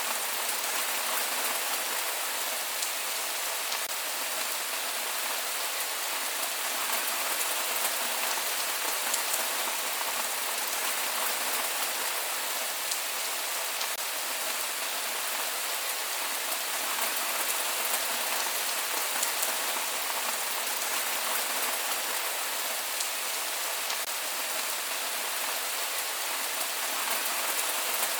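Steady rain falling, with no thunder: an even hiss with faint drop ticks scattered through it.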